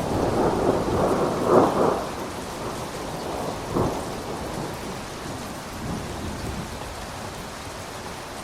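Thunder rumbling over steady rain: a long peal starts right away and peaks about a second and a half in, a second shorter burst comes near four seconds, and the rumble then dies away, leaving the rain hiss.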